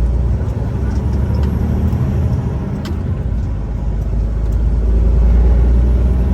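Semi truck's diesel engine running, heard from inside the cab as a steady low drone that grows louder about four seconds in. There is a single sharp click about three seconds in.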